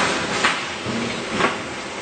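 Jerrican seam welding machine running: a steady hiss with two sharp metallic clanks about a second apart.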